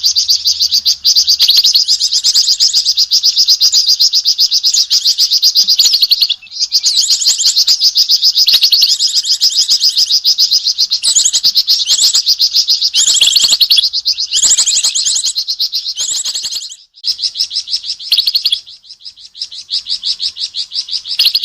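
A songbird known to Indonesian bird-keepers as flamboyan giving a loud, rapid, high chattering call in long unbroken runs, its reaction to the sight of an owl. Near the end the runs break into shorter bursts.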